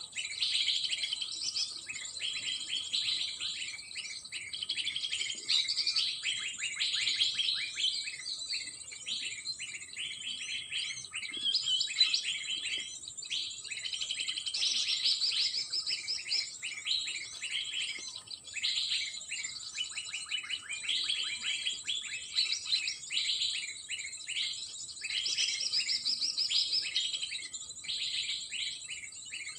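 Small birds chirping and calling continuously in dense, rapid runs of high chirps, over a steady high-pitched whine.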